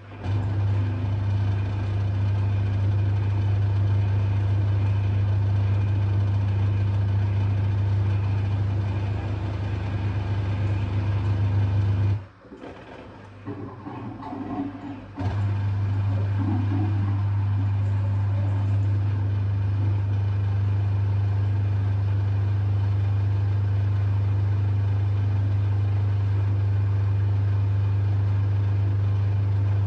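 LG washing machine drain pump humming steadily while pumping out water thick with suds, a sound the owner first took for a blocked pump. It cuts out suddenly about twelve seconds in, leaving a few seconds of quieter, uneven sound, then starts again and runs on steadily.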